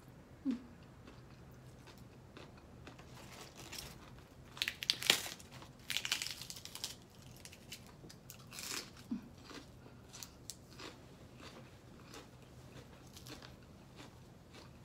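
A person chewing and crunching crisp food in bouts, loudest about four to seven seconds in and again near nine seconds, with quieter chewing in between.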